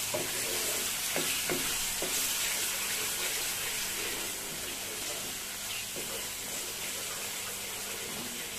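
Spice paste sizzling and frying in hot oil in a nonstick pan while a spatula stirs it. A steady sizzle, with a few scraping strokes of the spatula in the first two seconds. This is the masala being fried down (kashano) before the meat is added.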